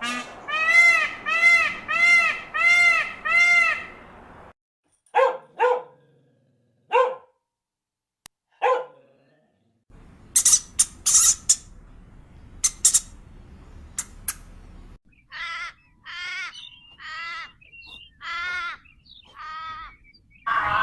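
Animal calls in several short clips cut one after another: first a run of six evenly spaced pitched calls, then a few short, separate calls, then sharp, clicky calls, and near the end another run of repeated pitched calls.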